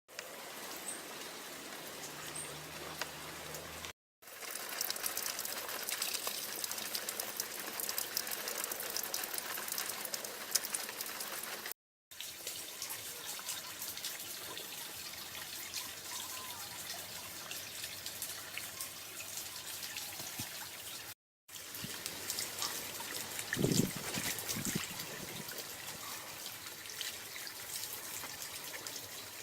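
Water trickling and splashing down a homemade waterfall, heard in several takes with three brief silent breaks between them. About twenty-four seconds in, a short, louder, duller sound stands out over the flow.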